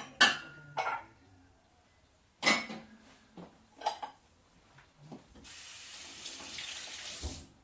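Dishes and kitchen utensils clattering against each other four times, then a kitchen tap running into the sink for about two seconds before it is shut off.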